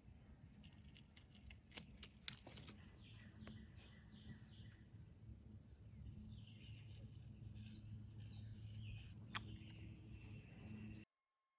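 Faint birds chirping, with a steady low hum and a few sharp clicks. The sound cuts off abruptly near the end.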